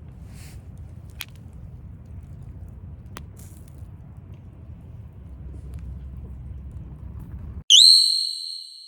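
A low steady rumble with a few faint clicks, then an abrupt cut to silence. A loud, short whistle-like sound effect follows: its pitch rises quickly, then it holds and fades out over about a second.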